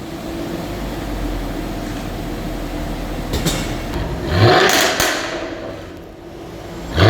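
Supercar accelerating hard, its engine and exhaust note rising sharply about four seconds in and then fading as it pulls away, after a steady low engine hum. Another loud burst of engine sound starts at the very end.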